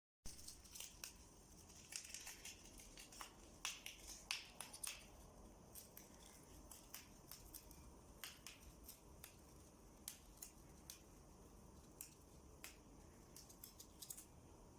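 Lovebird beak snipping and tearing nesting material: faint, irregular crisp clicks, busiest in the first five seconds and sparser after.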